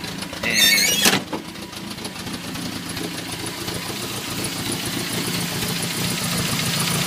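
Car engine idling steadily at an even pitch, growing gradually louder.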